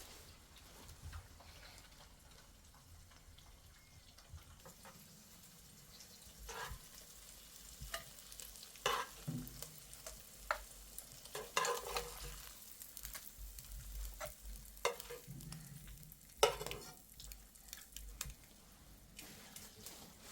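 Irregular clicks and knocks of things being handled, sparse at first and busier from about six seconds in, over a faint low hum.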